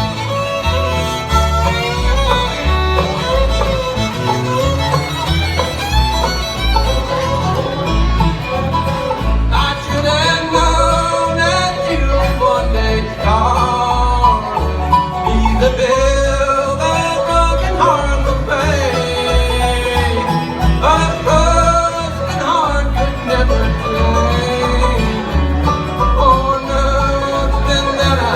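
Bluegrass band playing live: fiddle and banjo trading melody over guitar and a steady upright-bass beat.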